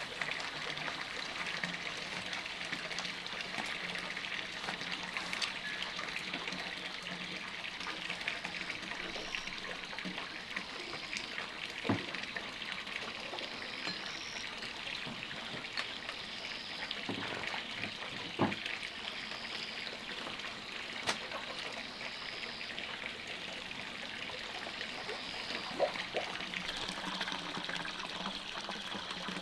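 Steady trickle of running water, with a few faint knocks.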